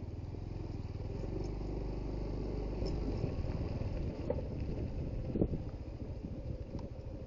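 Suzuki GD110HU motorcycle's small single-cylinder four-stroke engine running steadily while riding along a dirt road, with a few sharp knocks in the second half.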